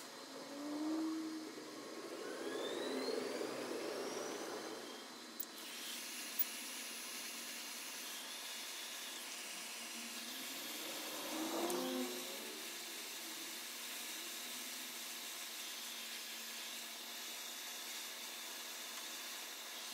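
Hot air gun blowing steadily while heating solder-seal heat-shrink wire connectors. A couple of sharp clicks come a little over five seconds in.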